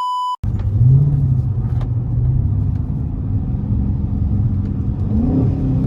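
A steady electronic beep tone cuts off just after the start. Then a Dodge R/T's 5.7-litre Hemi V8 runs at light cruising throttle, its pitch rising a little about a second in and again near the end.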